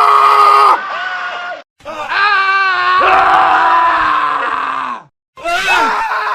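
Several men's screams spliced one after another, each cut off abruptly, with two brief silent gaps between clips. The longest scream wavers in pitch in its middle part.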